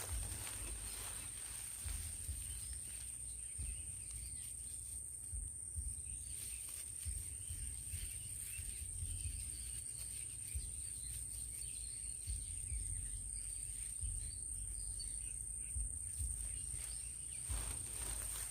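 Outdoor ambience: a steady high-pitched insect drone over a low, uneven rumble, with faint small ticks from handling.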